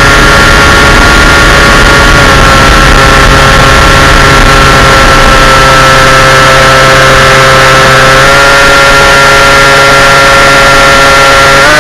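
Small aircraft engine running loud and steady over a constant hiss. Its pitch drops slightly about two seconds in, then rises a little about eight seconds in and again near the end.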